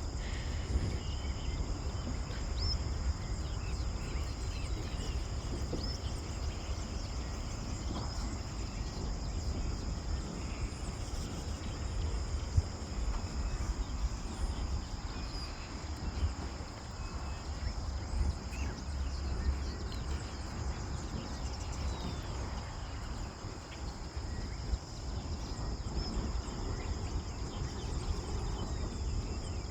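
Steady high-pitched drone of insects in the forest, holding two constant tones without a break, with a few faint short chirps above it. Beneath it, a steady low rumble on the microphone.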